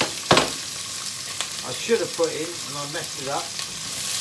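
Chopped vegetables sizzling in hot oil in a frying pan while being stirred with a wooden spatula, with one sharp knock about a third of a second in.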